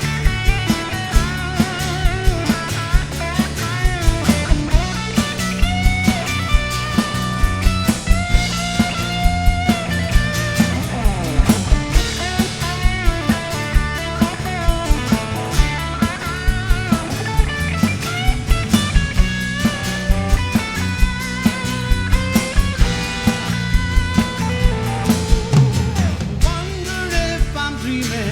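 Rock band playing an instrumental passage: a guitar line with bending notes over bass and a drum kit keeping a steady beat.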